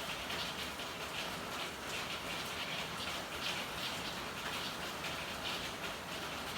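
Steady rain falling in an alley: a constant hiss with scattered drops and splashes on hard surfaces.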